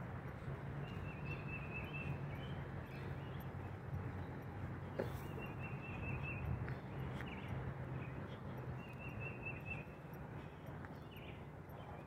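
Songbirds singing outdoors, one bird repeating a short phrase of rapid high notes every few seconds, over a steady low hum and the soft steps of someone walking on the gravel track bed.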